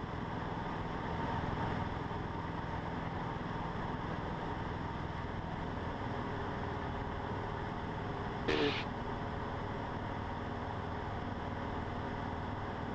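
Cessna 150's Continental O-200 four-cylinder engine and propeller droning steadily in cruise, heard inside the cabin. A brief sharp blip cuts in about eight and a half seconds in.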